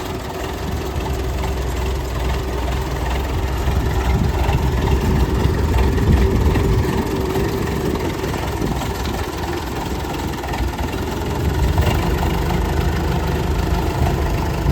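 Minneapolis-Moline M670 tractor engine running steadily, a low even engine note.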